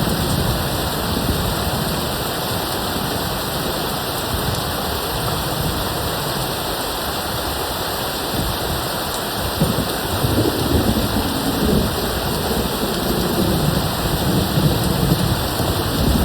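Steady rain pouring down, a continuous hiss, with distant thunder rumbling low underneath and swelling about ten seconds in.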